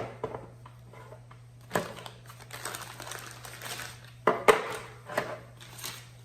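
Handling noise from the drill kit and its bag: several sharp knocks and clicks, the loudest a close pair about four and a half seconds in, with crinkly rustling between them.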